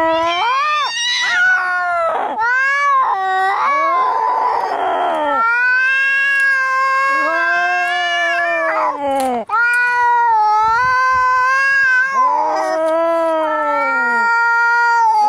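Domestic cats in a fight, caterwauling with long drawn-out yowls that rise and fall in pitch one after another, with a hiss about four seconds in.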